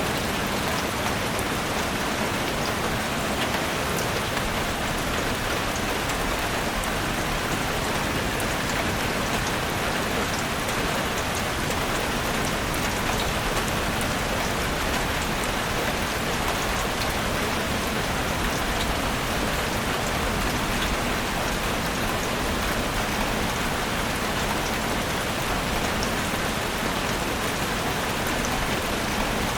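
Steady rain falling, an even hiss with scattered single drops ticking through it, constant in strength.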